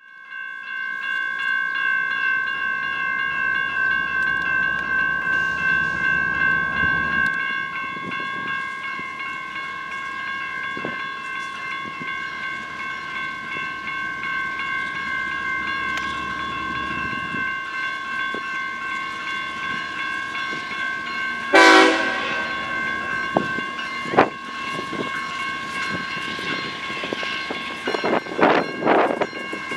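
Freight train rolling past, a low rumble of locomotives and railcars under a steady high-pitched whine. About two-thirds of the way through comes one short, loud blast, and there are a few sharp knocks near the end.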